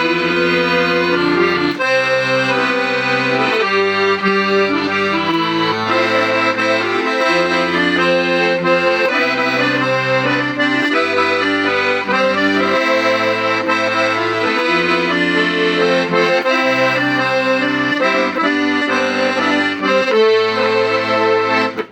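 Hohner Contessa 3M piano accordion being played: a melody on the treble side over an alternating bass-and-chord accompaniment, the bass note changing about once a second.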